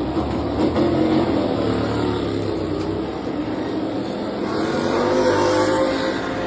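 MotoGP racing motorcycle engine running at high revs, its note rising from about four and a half seconds in as the bike accelerates.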